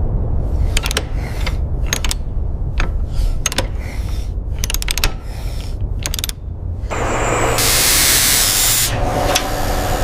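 Industrial machinery sound: a steady low rumble under a string of sharp metallic clicks and clanks. About seven seconds in, a loud hiss rises for a couple of seconds, then gives way to a humming drone.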